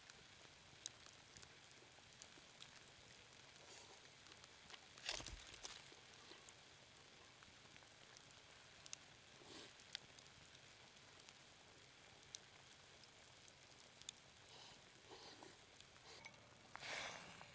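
Faint light rain pattering: a steady soft hiss with scattered small ticks. There is a single louder knock about five seconds in and a short rustle near the end.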